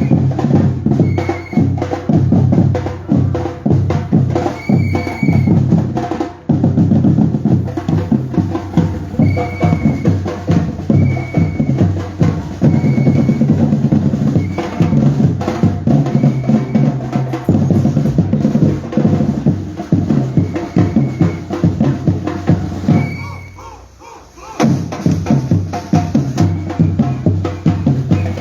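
Batucada drum group playing a fast, steady groove on bass drums, snares and other percussion, with short repeated whistle blasts over it. The drumming breaks off for a moment about five seconds before the end, then starts again.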